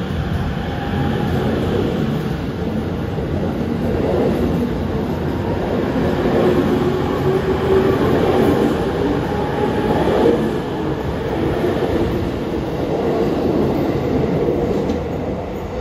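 E257 series 5000-numbered electric train departing and running past close by: a steady rumble of wheels on rail that swells to its loudest about ten seconds in, then eases off near the end.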